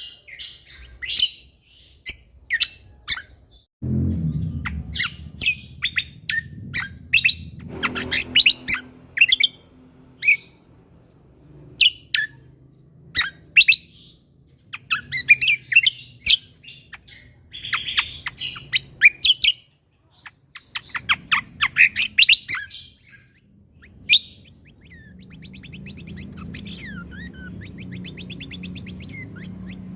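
Cucak kombo (kecial kombok) songbird singing a fast, varied string of sharp chirps and whistled notes with short pauses. It breaks into a rapid trill near the end. A low rumble runs under part of the song.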